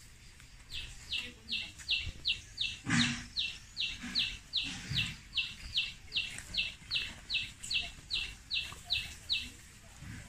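A bird repeating one short, sharp, slightly falling note over and over, about three notes a second, then stopping shortly before the end. A dull knock sounds about three seconds in.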